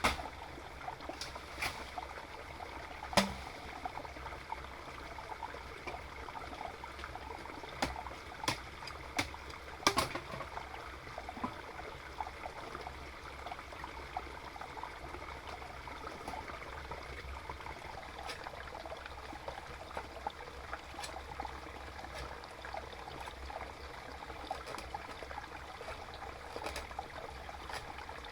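Water trickling and flowing steadily, with a few sharp clicks or knocks in the first ten seconds.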